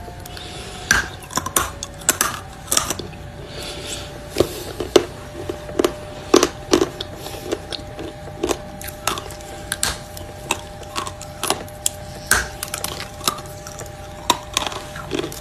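Dry chunks of edible chalk or clay being bitten and chewed close to the microphone: sharp, irregular crunches and snaps, about one or two a second. A faint steady hum runs underneath.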